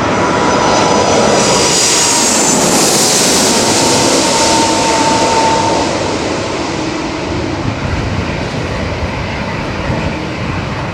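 Airbus A330-300 airliner with Rolls-Royce Trent 700 engines passing low overhead on approach to land: a loud jet roar with a high fan whine that drops in pitch as it goes by, fading gradually over the second half.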